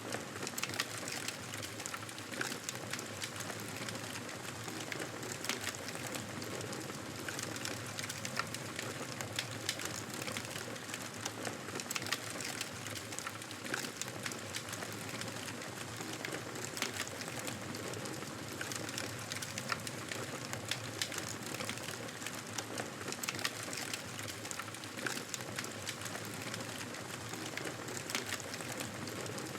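Wood fire crackling in a fireplace: a steady hiss with frequent sharp pops and snaps throughout.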